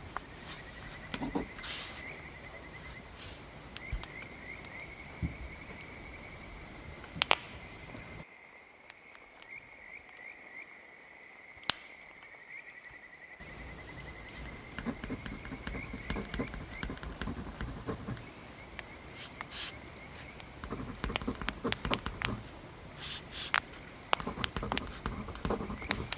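Bonfire crackling, with scattered sharp pops from the burning wood, over a steady high-pitched chirring in the background.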